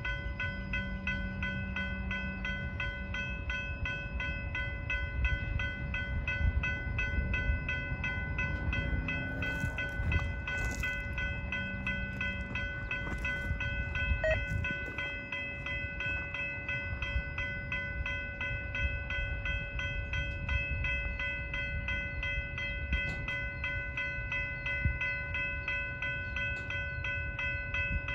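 Loaded freight train of tank cars rolling past: a steady low rumble and rattle of wheels on rail with a fast patter of faint clicks, over several steady high ringing tones.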